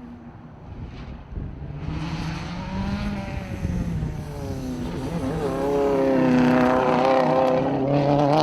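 Rally car engine revving hard and easing off as it comes up the stage. It grows louder until it is loudest in the last few seconds.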